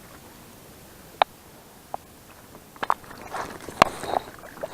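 Fishing rod and tackle being handled while a hooked fish is brought in: a few sharp separate clicks and knocks, then rustling and scraping with more clicks in the second half.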